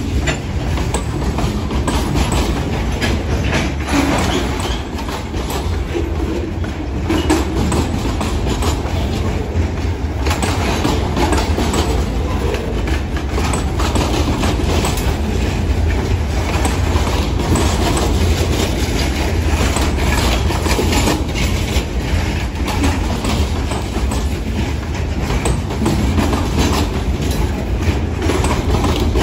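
Lake State Railway freight train of open-top hopper cars rolling past: steel wheels clacking over the rail joints in a loud, steady clatter with frequent sharp clicks and rattles.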